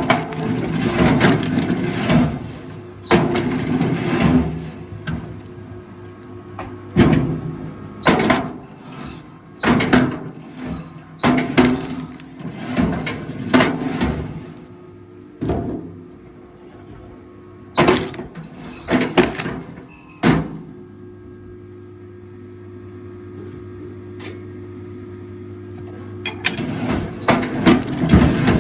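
Rail log splitter running with a steady hum while logs are split: repeated loud cracking and splintering of wood, some with a high squeak, then a stretch of just the machine running before more splitting near the end.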